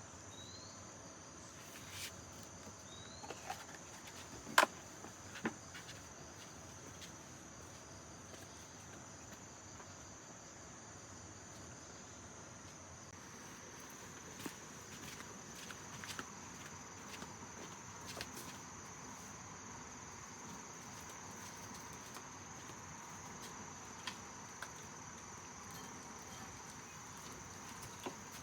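Steady high-pitched insect chorus, with scattered light clicks and rustles over it and one sharper click about four and a half seconds in.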